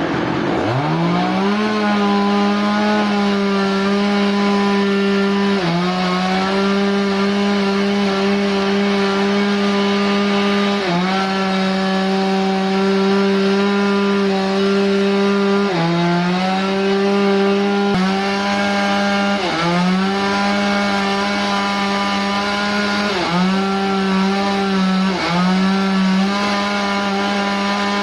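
Power saw revving up to speed, then running steadily while cutting wood. Its pitch dips briefly and recovers every few seconds as the saw bogs under the cutting load.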